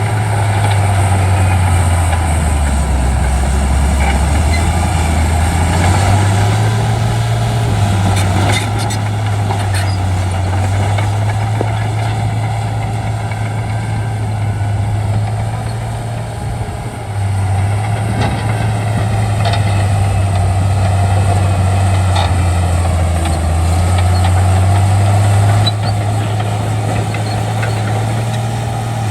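Shantui D95 bulldozer's diesel engine working as it pushes fill. Its note sags in pitch and recovers several times as the load changes, dropping lowest a few seconds in, with a short dip in loudness about two-thirds of the way through.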